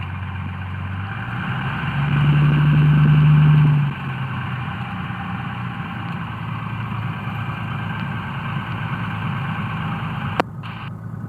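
Cessna 172's engine running at taxi power in the cockpit, briefly louder between about two and four seconds in. Over it, a steady hiss on the radio from a stuck mic holding the frequency open, which cuts off with a click near the end.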